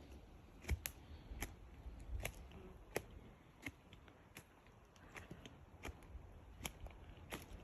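Faint footsteps at a steady walking pace, about one step every three-quarters of a second, each a sharp click, over a low rumble.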